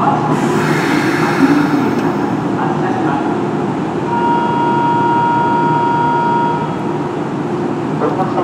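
Electric train standing at a station platform with a steady low hum. A hiss of air comes about half a second in, and a steady ringing tone sounds for about two and a half seconds from about four seconds in.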